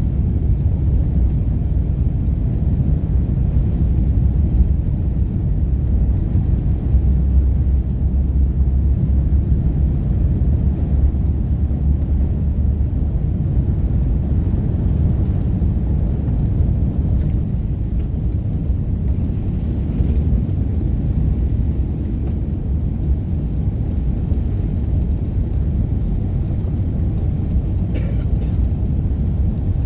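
Airbus A380 jet engines at takeoff power: a deep, steady rumble, a little stronger in the first third and easing slowly after.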